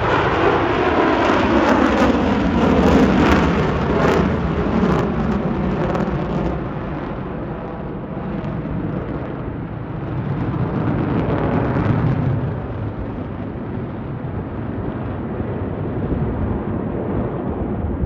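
Blue Angels F/A-18 Super Hornet jets flying past with a loud jet roar. The pitch falls as they go by over the first few seconds, then the roar fades to a rumble, swells again about halfway, and settles.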